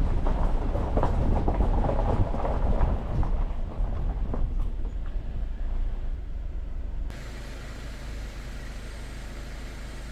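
Jeep Wrangler driving on an unpaved forest road: a rough, rumbling drive with many small knocks and rattles. About seven seconds in it drops abruptly to a quieter, steady low drone.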